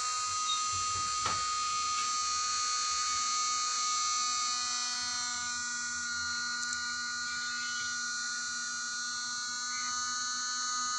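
A steady, even buzz with an unchanging pitch.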